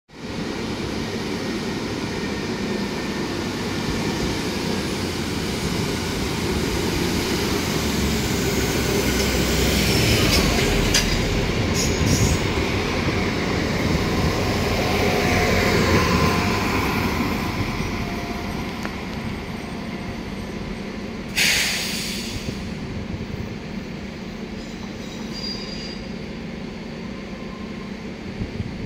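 Trenitalia ATR220 'Swing' diesel multiple unit running past on the adjacent track, its engines and wheels loudest about halfway through and then fading as it pulls away, with some faint wheel squeal. A brief hiss about two-thirds of the way in.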